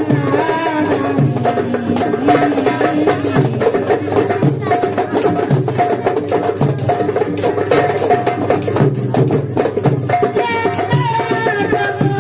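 Marawis ensemble playing: hand drums beaten in a fast, steady, interlocking rhythm, with a melody line running over the drumming.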